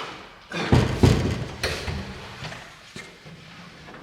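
Heavy thud and clatter about a second in, then single knocks: a car's fuel tank, still full of gasoline, being wrestled loose and down from under the body.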